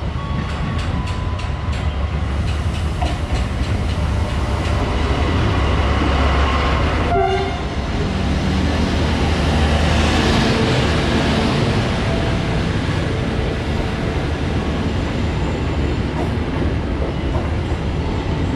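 A train running past on the tracks: a steady heavy rumble with wheels clattering over rail joints, loudest around the middle.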